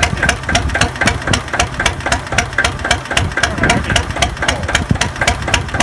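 Vintage stationary diesel engine with a Ricardo Whirlpool pre-combustion chamber, of the kind used to drive emergency backup generators, running steadily with an even knock of about eight beats a second.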